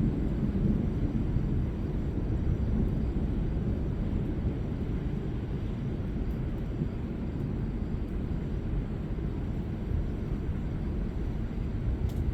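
Low, steady rumble of distant rolling thunder from a severe thunderstorm, slightly stronger in the first second.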